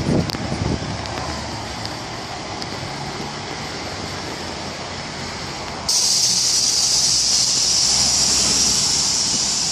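Steady rumble of a moving vehicle. About six seconds in, a loud, steady high hiss starts abruptly and carries on.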